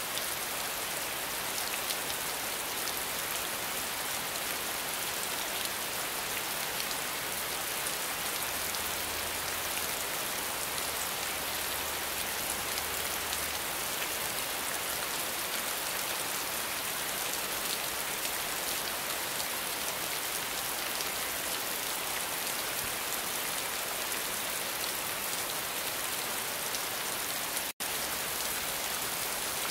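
Steady rainfall, an even hiss of drops, which cuts out for an instant near the end.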